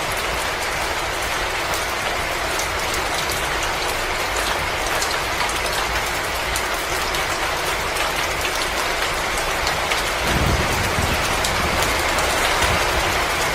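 Wood fire crackling in a fireplace: a steady hiss scattered with quick snaps and pops, with a low rumble coming in about ten seconds in.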